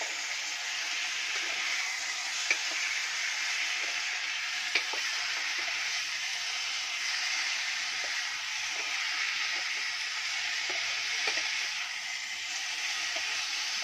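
Chicken sizzling as it is sautéed with garlic, onion and ginger in a pot, stirred with a spoon that scrapes and knocks against the pot. Two sharper clinks come about two and a half and five seconds in.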